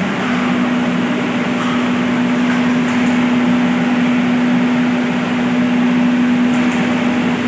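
Electric water pumps running steadily: a constant machine hum with one strong steady tone over an even mechanical noise.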